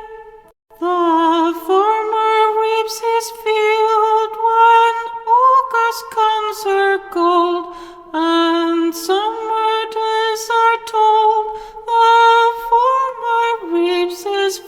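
A woman singing a slow, plaintive folk tune in phrases, with short breaths between them.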